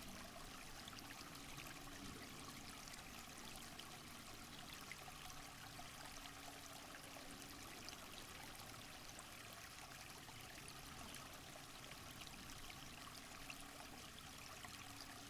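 Faint, steady rush of running water in a rainforest, even and unbroken throughout.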